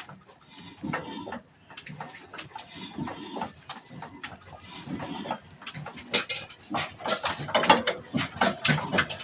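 Old black diesel engine being turned over to start, giving irregular knocks that come faster and louder about six seconds in.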